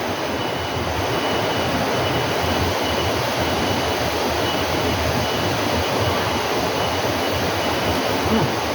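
A steady rushing noise, even and unchanging, with a faint thin high tone over it.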